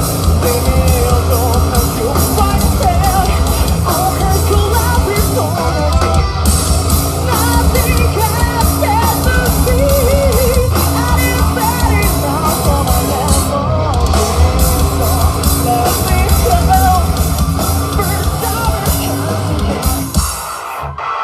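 Live rock band playing loud, with sung and shouted vocals over distorted electric guitars, bass and drums, heard in a large room. The music drops away briefly near the end, then comes back in full.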